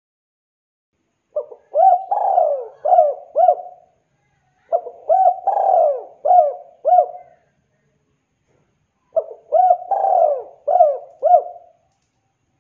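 Spotted dove (tekukur) cooing: three phrases a few seconds apart, each a quick run of about five coos with one longer, falling note near the start.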